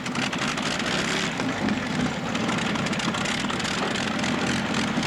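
Pulling tractor's engine running hard at high revs, a steady drone under a fast stream of exhaust pulses.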